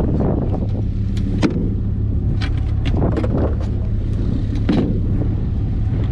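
A steady low rumble with a handful of sharp knocks and clicks scattered through it, typical of hive boxes and equipment being handled.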